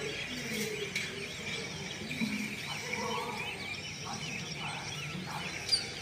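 Many small birds chirping and twittering at once, a busy chorus of quick high calls, with one sharp, loud, falling whistle near the end. Lower calls or distant voices sound faintly underneath.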